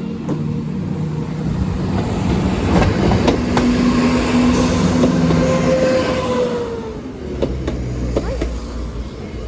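A diesel train passes over the level crossing. Its engine runs with a steady note while its wheels click over the rail joints. It is loudest in the middle, and about six seconds in one tone of it slides down in pitch as the train moves away.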